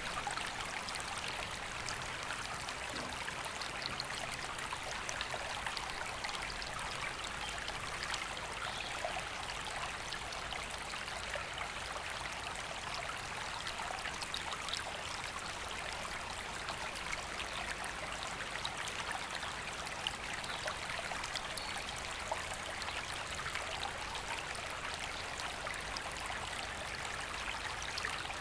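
River water flowing steadily: an even, unbroken rushing and babbling.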